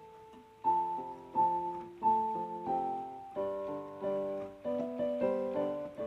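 Background music: a slow, gentle piano melody, with notes and chords struck about once or twice a second.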